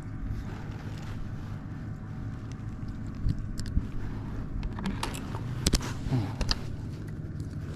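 A steady low engine hum, with a few sharp clicks and knocks scattered through the middle.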